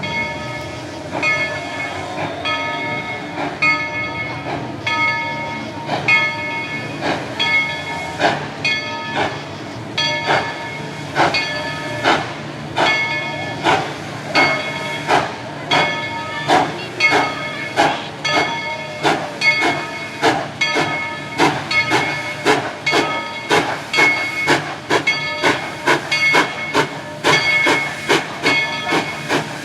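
Narrow-gauge steam locomotive working, its exhaust chuffs quickening from about one a second to two or three a second, with steam hiss. Each beat carries a clear ringing tone, like the locomotive's bell ringing.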